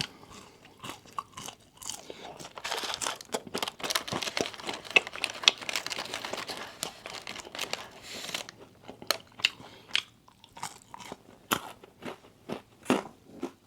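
A person eating Wingstop food: crunching and chewing, with a dense run of crunching from about two and a half to eight seconds in, then sparser single crunches and mouth clicks.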